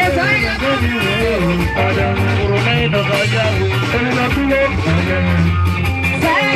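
Live band music with electric guitar and bass, and a bending melodic line that may be a voice or a lead guitar.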